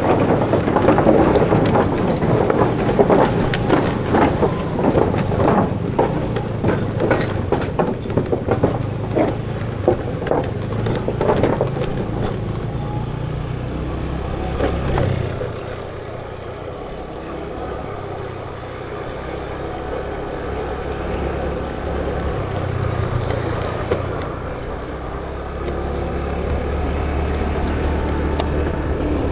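Road traffic with motor vehicles running. It is busy, with clatter and short knocks, for the first half, then settles about halfway through into a steadier low engine hum.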